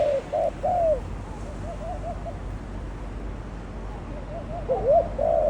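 Doves cooing in short, arched coos: a loud run at the start, a fainter run in the middle, and another loud run near the end.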